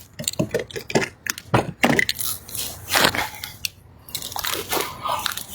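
Irregular rustling, brushing and clicking close to the microphone: handling noise.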